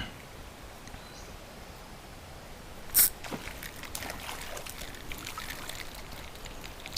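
Creek water: one loud sudden splash about three seconds in, followed by many small drips and spatters over a faint steady trickle.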